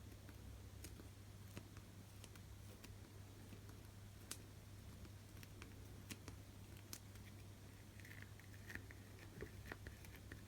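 Near silence: a steady low hum with scattered faint clicks and ticks as fingers work old adhesive off an iPhone LCD panel.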